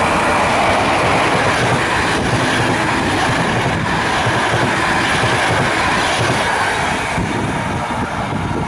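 Express passenger train hauled by an electric locomotive passing close at speed: a loud, steady rush of wheels on the rails that eases slightly near the end.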